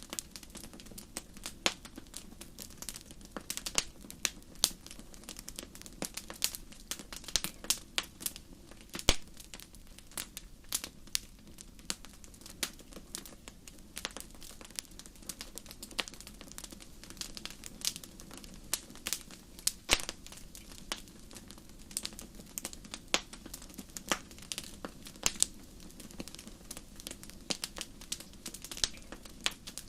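Wood fire in a fireplace crackling, with irregular sharp pops and snaps, several a second and some much louder than others, over a faint steady low rush.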